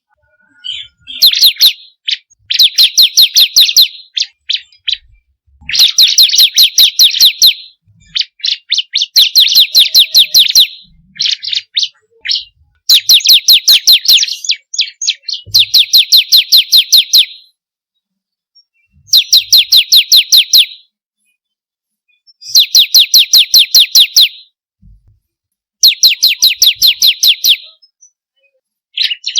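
Bar-winged prinia (ciblek kristal) song: fast trills of sharp, evenly repeated notes in bursts of one to two seconds, with short pauses between bursts.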